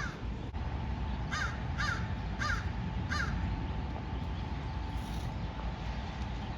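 A crow making a ruckus: a string of harsh caws, about five in the first three and a half seconds, over a steady low rumble.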